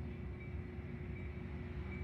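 Metra commuter train standing at the platform with its equipment running: a steady low rumble with an even hum over it.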